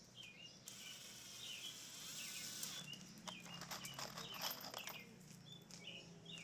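Small birds chirping in short repeated calls. A stretch of hiss comes about a second in, and a run of clicks and scrapes follows in the middle.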